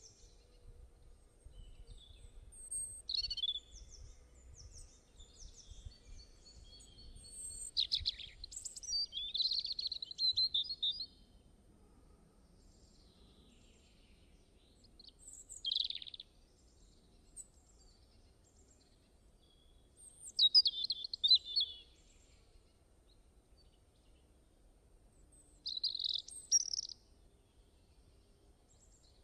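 Songbirds singing and calling in short bursts of high chirps and trills, with quiet gaps between phrases, over a faint low rumble of background noise.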